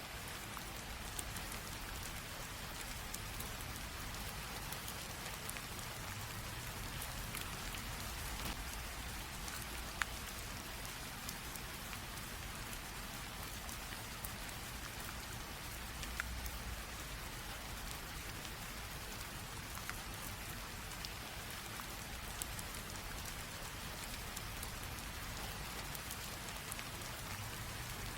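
Light rain drizzle: a steady, even hiss of rain with many small drops ticking on surfaces, a few louder drops standing out.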